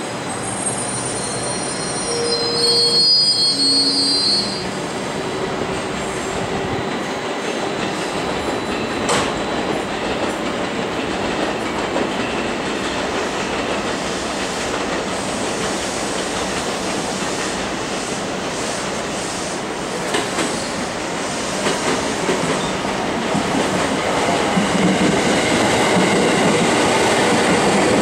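JR Central 313-series and 311-series electric multiple units rolling slowly through the station over curved pointwork. High wheel squeal comes in the first few seconds, then a steady rumble of wheels with occasional clicks over joints and points. It grows louder near the end as the cars pass close by.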